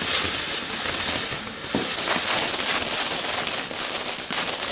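A firework going off with a steady hiss and many rapid crackles, the crackles growing thicker near the end.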